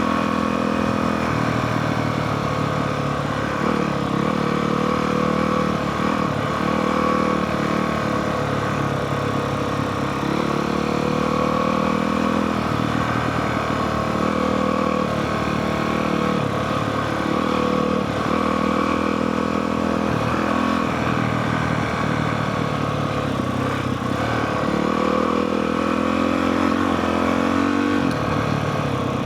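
Honda CRF450R single-cylinder four-stroke dirt bike engine running under the rider, its pitch rising and falling over and over as the throttle opens and closes on a descent.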